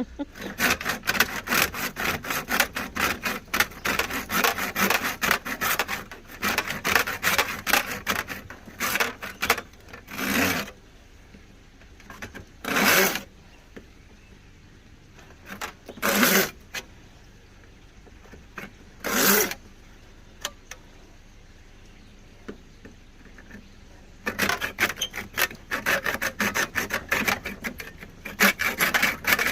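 Hand saw cutting through a pond hose tail fitting, with quick back-and-forth rasping strokes. About ten seconds in the strokes slow to a few separate single pulls with pauses between, then turn quick again near the end.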